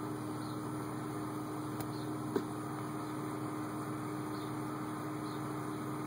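Steady hum inside the cabin of a 2004 BMW X5 idling at about 790 rpm, with a single light tap a couple of seconds in.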